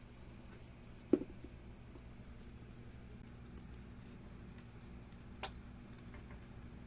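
A single sharp knock about a second in, and a lighter click later, among faint scattered small ticks over a low steady hum.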